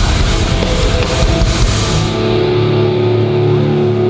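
Hardcore band playing live with distorted electric guitars and drums with cymbals; about two seconds in the drums and cymbals stop and a held distorted guitar chord rings on, closing the song.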